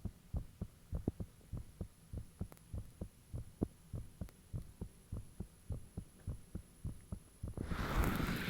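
A person's heartbeat picked up close to the chest: steady, fast, low thumps at about three a second, which the owner describes as unusually thumpy. Near the end a loud rustling hiss covers the beats.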